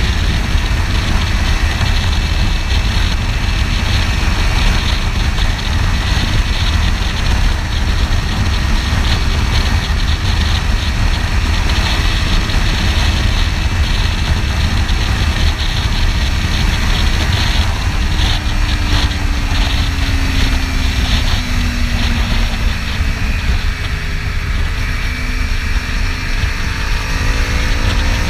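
Kawasaki Ninja 300 parallel-twin engine running during a ride, under a heavy, steady rush of wind on the helmet-mounted camera's microphone.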